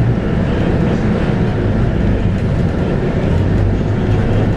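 Scania K230UB bus running with its 8.9-litre five-cylinder Scania DC9 diesel and ZF Ecomat automatic gearbox, heard from on board as a steady drone. Its low engine hum fades just after the start and comes back strongly about three seconds in.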